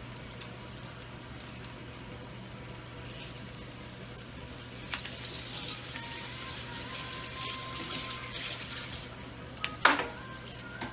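Flour-and-egg-coated zucchini slices frying in a pan, a steady sizzle. A tap runs at the sink for a few seconds midway, and a sharp knock sounds near the end.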